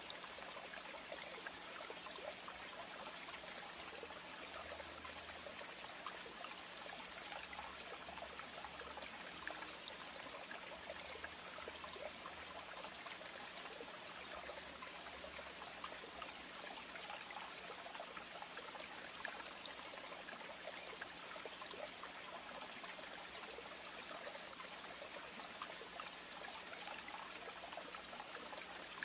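Steady trickling water, an even fine splashing hiss with no break, over a faint steady low hum.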